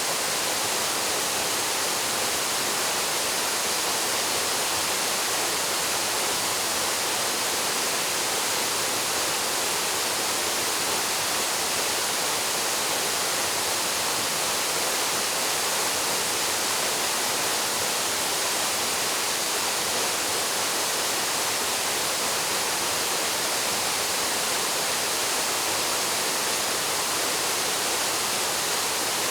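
Waterfall plunging into a pool, a steady hiss of falling water with no change in level.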